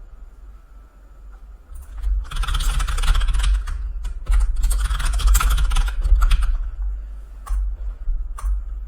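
Computer keyboard typing in two quick, dense bursts, then a few separate key or mouse clicks near the end.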